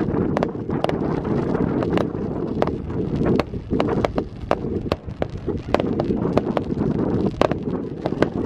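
Fireworks going off: a continuous low rumble with many sharp crackling pops on top, a few a second.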